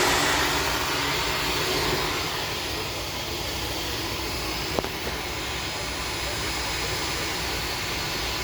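Shark Stratos upright vacuum cleaner running with a steady rush of suction and motor noise, with a single sharp click a little under five seconds in.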